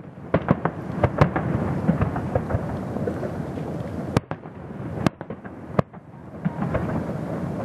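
Fireworks display: a dense run of bangs and crackling over a continuous rumble, with several sharper reports standing out.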